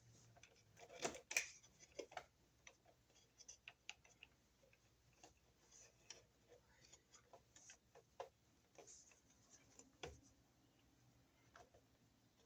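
Faint, irregular small clicks and taps of solid copper wire ends being handled and lined up, with a couple of louder knocks about a second in and near ten seconds.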